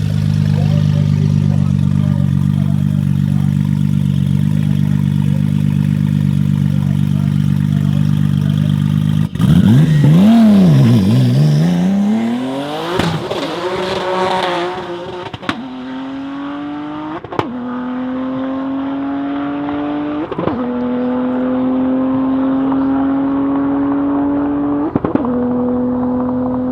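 Twin-turbo 3.0 L V6 of a 1200 hp Audi S4 B5 holding a steady note at the start line. About nine seconds in it launches, the revs swinging up and down. It then pulls hard through several gears, the pitch climbing in each gear, with a sharp crack at each of four upshifts.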